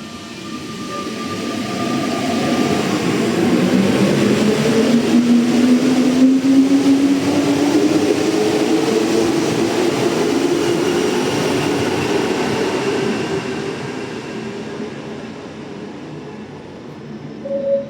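NS-93 rubber-tyred metro train pulling away, its traction motors whining in a tone that rises steadily in pitch as it accelerates, growing louder and then fading as the train moves off.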